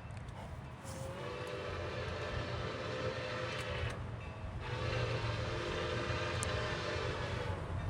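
Locomotive air horn sounding two long blasts of about three seconds each, several tones at once, over the low rumble of the train, which grows louder as it approaches.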